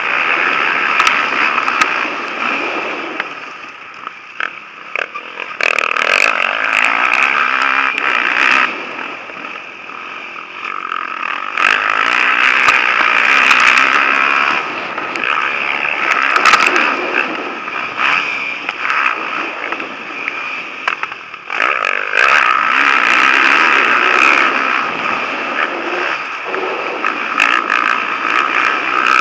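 Motocross bikes racing past on the track, their engines revving hard at high pitch and rising and falling as they come and go. The sound drops away twice in the first ten seconds, then stays loud through the rest.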